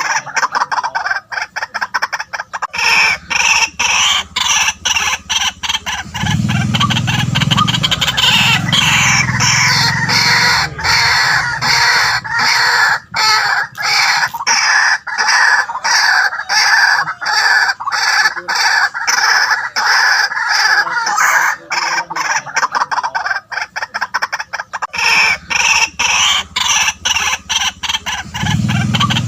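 White-breasted waterhen calling continuously, a long series of short notes repeated in quick succession, with a lower note joining in at times.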